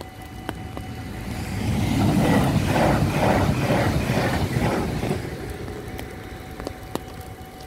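Regional passenger train passing over a level crossing at speed: it builds to a loud rush with a rhythmic clatter of wheels, about two beats a second, for about three seconds, then fades. The crossing's warning bells ring steadily throughout.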